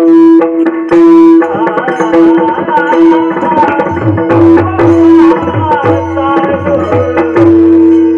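Pakhawaj drumming in a devotional bhajan's instrumental passage between sung lines, its deep bass strokes growing prominent about halfway through, under repeated held melodic notes and sharp rhythmic strokes.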